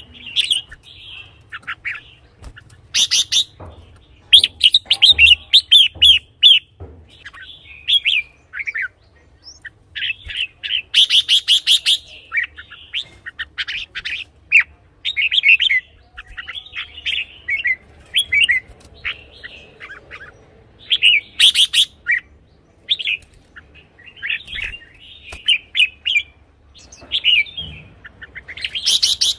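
Red-whiskered bulbul singing: short, quick, warbling phrases repeated with brief pauses between them, with a few louder, harsher notes mixed in.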